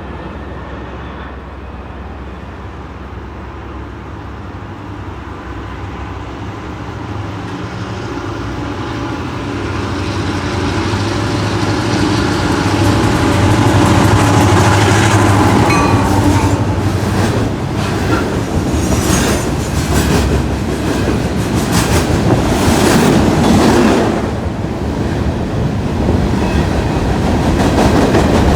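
A train approaches, growing louder over about eight seconds, then passes close by with a fast, uneven clatter of wheels over rail joints.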